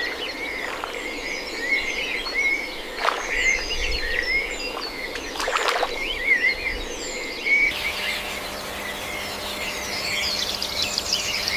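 Birds chirping, many short high peeps overlapping, with two soft knocks about three and six seconds in.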